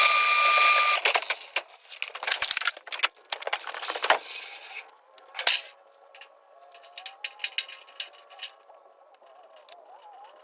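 Sped-up work sounds from a gutter install: a power tool whines briefly at the start, then a quick run of clattering knocks and rattles. The second half is quieter, with scattered light taps.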